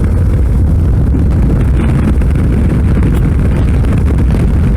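Strong wind buffeting the microphone on a moving motorcycle, a loud, steady low rumble, with the 2012 Suzuki V-Strom 650 running and road noise underneath.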